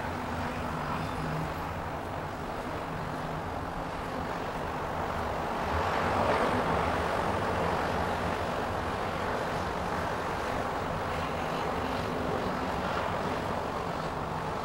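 Steady outdoor rumble of engine noise, growing louder about six seconds in and easing off after.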